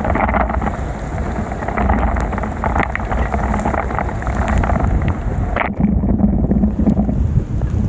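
Wind rushing over the microphone of a bicycle riding through heavy rain, with a steady hiss of rain. The higher part of the hiss drops away for about three seconds in the second half.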